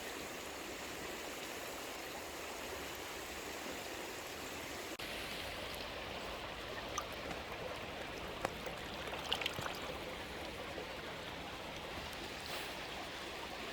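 Steady rushing of a flowing stream. A few short, sharp clicks come over it about halfway through.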